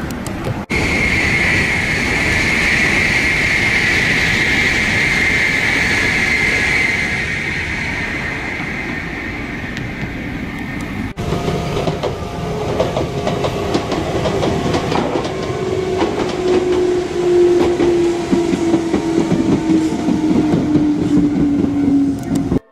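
Electric commuter trains running on the track. In the first half a high whine sinks slowly in pitch. After a cut, a Shizuoka Railway train comes in with a lower motor whine falling steadily in pitch, over a rapid clatter of wheels on the rails.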